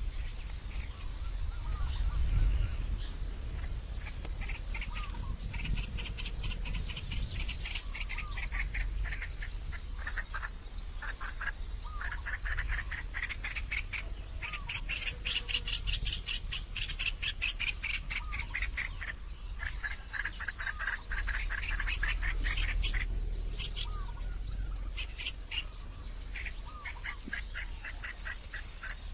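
A chorus of trilling animal calls, each a rapid train of pulses, coming and going in bouts over a low rumble. A high thin tone slowly rises and falls in pitch throughout.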